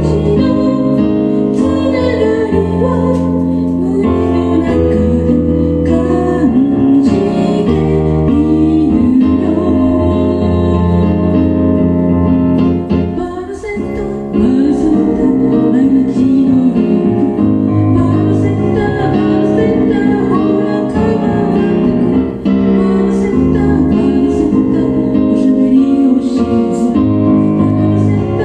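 A band playing a song with a lead vocal over keyboard or piano. The music dips briefly about halfway through, then comes back in full.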